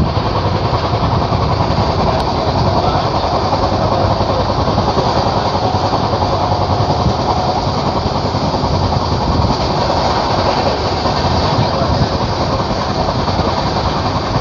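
Steady running noise of a moving passenger train, heard from inside the coach.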